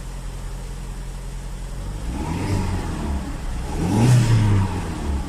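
Hyundai Elantra's engine running at idle, then blipped twice, the revs rising and falling back, the second blip the louder. It runs again after a no-start fault cured by a new fuel pump.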